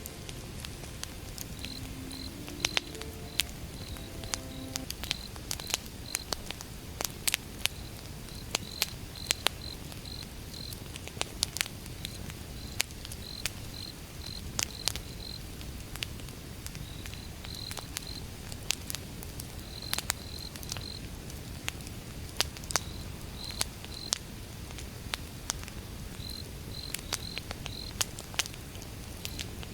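Wood campfire burning with a low steady rumble and irregular sharp crackles and pops from the burning logs. Crickets chirp in short runs of high chirps throughout.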